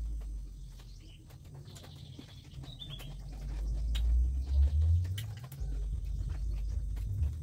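Mouth sounds of someone chewing fried rice eaten by hand: scattered small clicks over a low rumble, with a short bird chirp about three seconds in.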